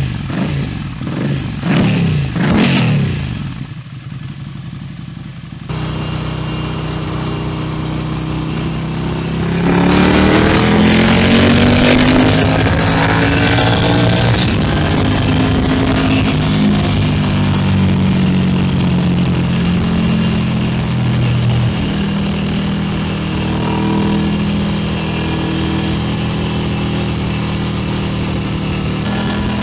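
2021 Ducati Scrambler Nightshift's 803 cc air-cooled L-twin engine running through an open exhaust. It opens with quick throttle blips, drops to a steady idle, and from about ten seconds in the revs rise and fall before it settles into a steady run.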